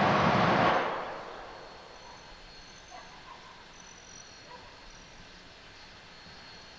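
A loud rushing hiss of steam from a coal-fired steam locomotive stops about a second in and dies away, leaving a quiet background with a faint steady high whine and a few short faint chirps.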